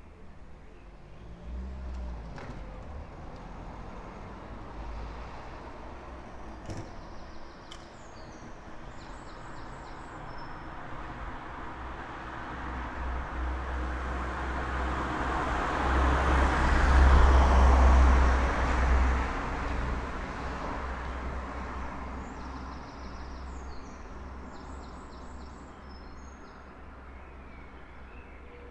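A road vehicle passing by on the street, its engine and tyre noise with a low rumble swelling for several seconds, peaking about two-thirds of the way through, then fading away. Birds chirp faintly at the start and near the end.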